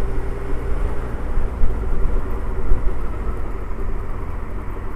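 Suzuki Hayabusa's inline-four engine running steadily at cruising speed, heard as a deep low rumble under a rush of wind and road noise.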